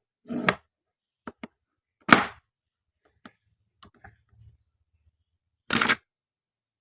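Toy knife chopping through wooden and plastic play fruit on a toy cutting board, with short knocks and clacks. The loudest strikes come about two seconds in and near the end, with a few light taps between.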